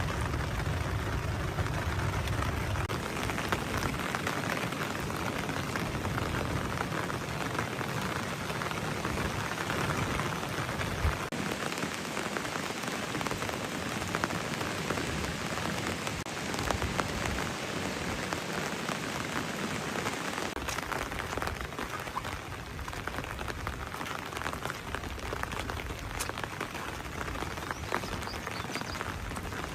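Steady rain falling, a dense even hiss of many small drop impacts. A low rumble underneath fades out about three seconds in.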